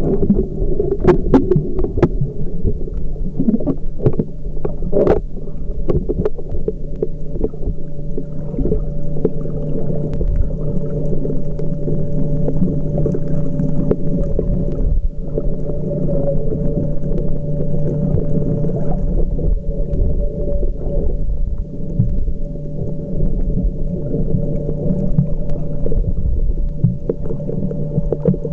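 Muffled underwater sound while snorkeling: a constant low rumble of water against the camera housing with a steady hum underneath, and a few sharp clicks in the first few seconds.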